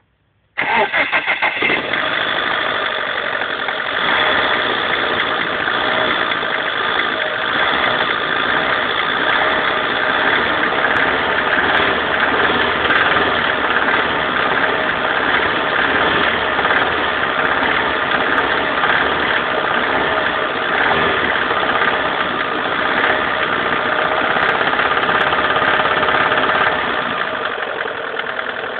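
Alfa Romeo 145 1.6 Twin Spark engine starting about half a second in, then running steadily; this running sound is the strange engine noise the owner is pointing out.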